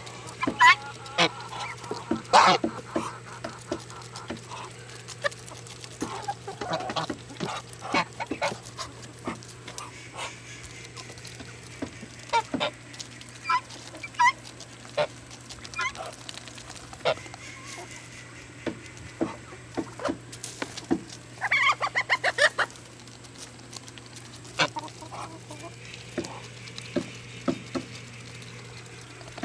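Birds feeding, with frequent sharp pecking clicks, a quick run of them about two thirds of the way through, and a few short calls.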